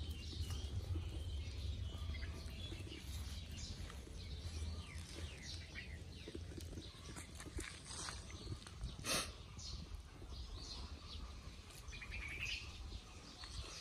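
Birds chirping in short, scattered calls over a steady low rumble, with one sharp click about nine seconds in.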